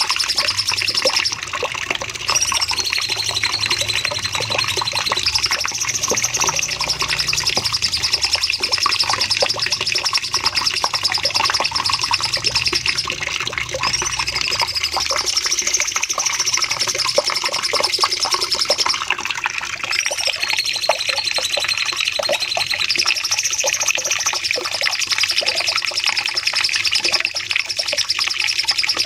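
Cucak cungkok singing a long, unbroken run of rapid, high chirping notes, with a few gliding phrases that fall in pitch. It is the 'long shooting' song that is played to captive songbirds to train them.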